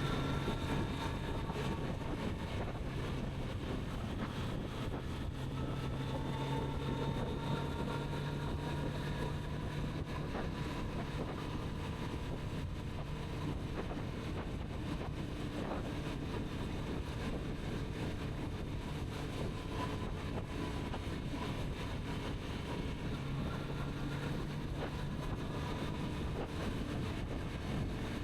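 Kawasaki Z900RS inline-four engine running at steady cruising revs, its pitch drifting gently up and down, with wind rushing over the microphone.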